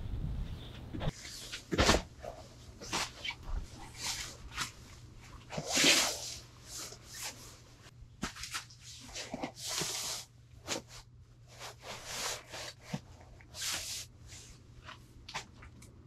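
Irregular rustling, crinkling and small knocks of camping gear being handled, with one louder crinkle about six seconds in. A low wind rumble on the microphone dies away about a second in.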